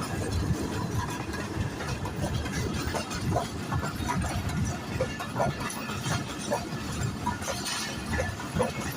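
HGMU-30 diesel locomotive hauling a passenger train at slow speed, a steady low rumble of engine and wheels on rails, with scattered short clanks and squeaks.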